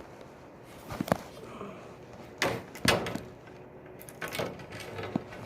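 Handling noises from hard parts being moved about: a few separate knocks and short rattles, with a louder clatter at the end.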